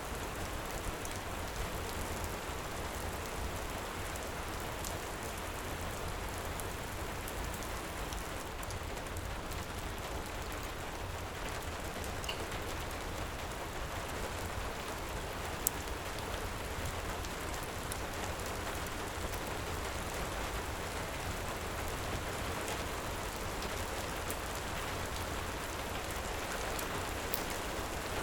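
Heavy rain falling steadily, with sparse sharp crackles and pops from a wood fire, one louder pop a little past halfway.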